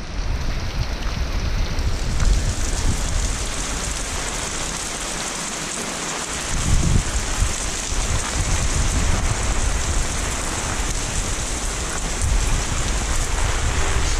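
Heavy typhoon rain pouring steadily, a dense even hiss, with low rumbles coming and going underneath.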